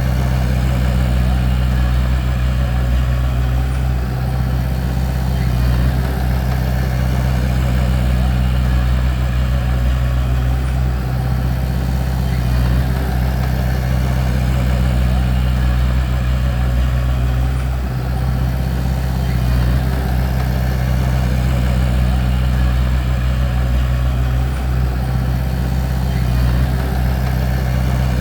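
Bulldozer's diesel engine running steadily under continuous operation, a deep, even drone with no breaks.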